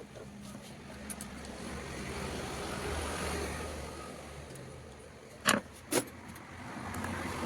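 A passing motor vehicle: its noise swells and then fades away. Two sharp clicks about half a second apart follow near the end.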